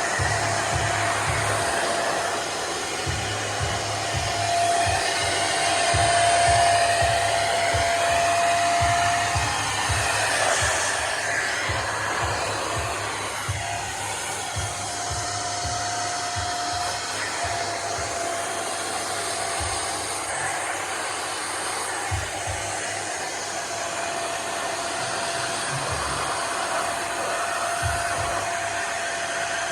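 Nunix wet & dry vacuum cleaner running as a blower: a steady motor whine over rushing air, wavering a little in the middle.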